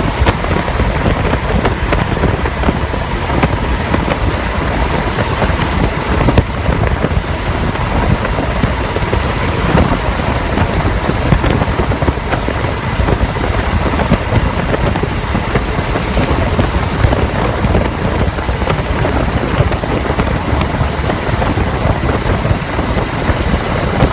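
Helicopter in flight, heard from on board: a loud, steady noise of engine and rotor with a faint steady whine over it.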